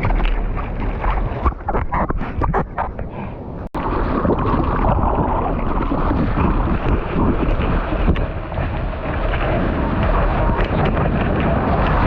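Wind buffeting the microphone over rough surf: a loud, steady rush with heavy low rumble, broken by a brief dropout just under four seconds in.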